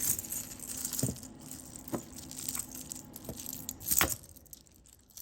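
Costume jewelry being handled: necklace beads and metal pieces clicking and rattling against each other, with several separate sharp clicks about a second apart, the loudest near the end.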